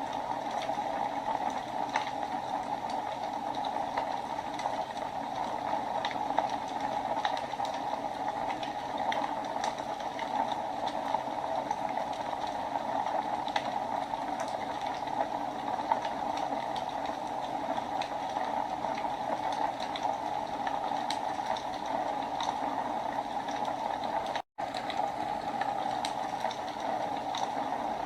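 Wood fire burning in a fireplace: a steady rushing hiss with frequent small, irregular crackles and pops. The sound cuts out for a split second about three-quarters of the way through.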